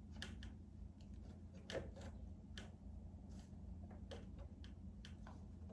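Faint, irregular clicks and light taps of small parts being handled while the motor and its standoff mount are test-fitted against the cowl, over a steady low hum.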